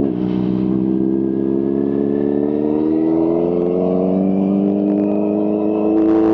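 Kawasaki H2's supercharged inline-four engine pulling under load, its pitch rising slowly and steadily as the bike accelerates through one gear.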